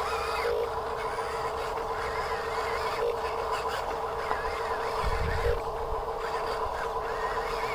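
A steady machine hum or whine, holding one pitch, with a brief low thump about five seconds in.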